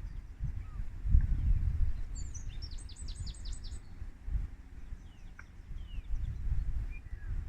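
Wind buffeting the microphone in gusts, with a small bird singing a quick run of about eight high chirps about two seconds in and a few faint scattered calls.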